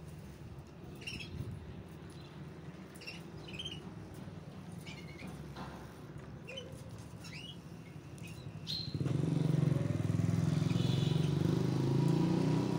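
Small birds chirping in short, high calls over a low background rumble; about nine seconds in, a passing motor vehicle's engine comes up much louder.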